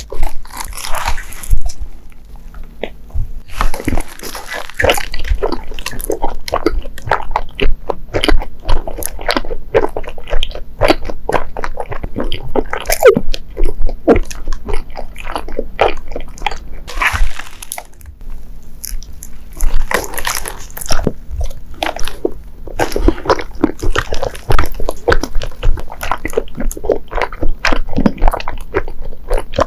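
Close-miked chewing of soft, sticky Japanese mochi sweets: dense, irregular wet mouth clicks and smacks, with a few short hissy bursts.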